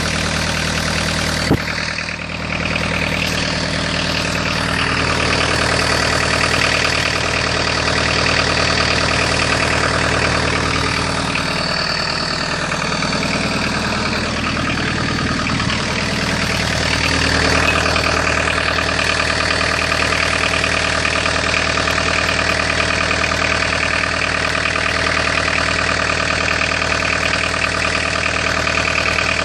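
Peugeot 306's 1.9-litre XUD9 diesel engine with a twin-turbo setup, running mostly steadily near idle. The sound shifts for several seconds in the middle, and a single sharp click comes about a second and a half in.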